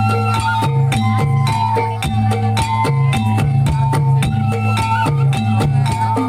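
Javanese reog accompaniment music: drums and sharp wooden strikes over sustained, ringing tuned-gong tones, repeating in a steady, even cycle.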